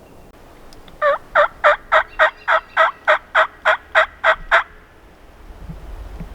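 Turkey yelping: a run of about thirteen evenly spaced yelps, roughly three and a half a second, each note dropping in pitch, lasting about three and a half seconds. Wind rumbles on the microphone near the end.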